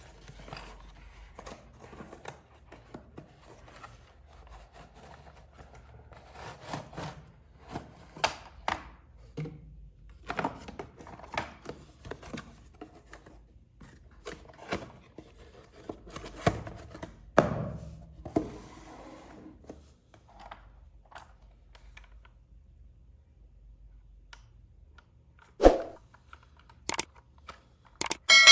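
Packaging and plastic toy parts being handled: irregular clicks, taps, rustles and short tearing sounds, with a sharp knock near the end.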